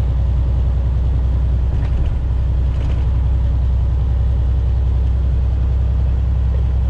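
Semi truck's diesel engine running, heard from inside the cab: a steady low drone.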